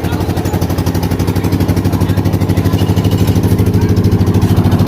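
Engine of a concrete mixer running steadily with a fast, even chugging pulse, a little louder from about two seconds in.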